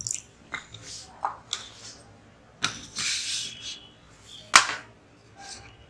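Kitchen utensils knocking and clinking against bowls and cups, a few separate knocks with one sharp knock about four and a half seconds in, as milk is being readied to mix into the bread-crumb batter.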